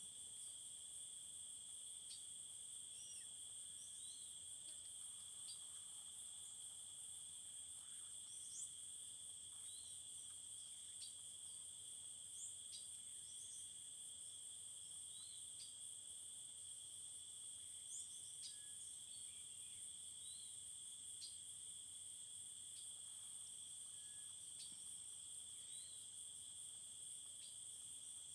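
Steady, high-pitched chorus of insects trilling without a break, with faint, short bird chirps scattered through it.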